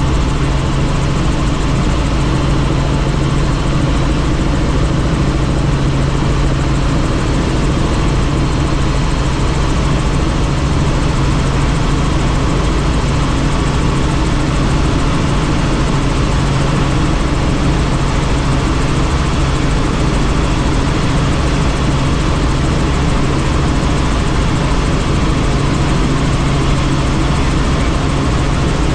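Helicopter in flight: steady, unchanging rotor and engine noise with a strong low hum.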